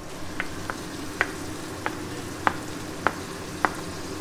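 Diced beef fat and onions sizzling in hot oil in an aluminium pot, while a metal ladle scrapes the fat in with about seven sharp, ringing taps, one every half second or so.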